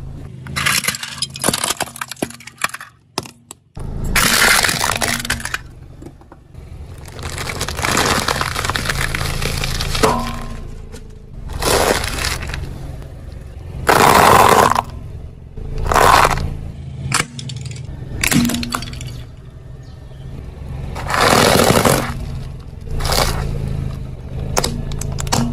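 A car's tyre rolling over and crushing brittle objects: a series of crunching and cracking bursts, the loudest about halfway through, over a steady low engine hum.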